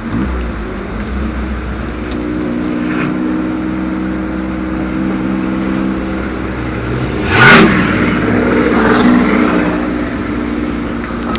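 Ford Capri Turbo's engine heard from inside the cabin, running steadily at low revs as the car rolls slowly. About seven and a half seconds in, a quick throttle blip brings a short, loud rush of noise, with a smaller one a second and a half later.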